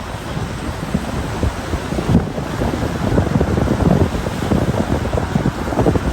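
Wind buffeting the microphone: a loud, irregular low rumble in gusts.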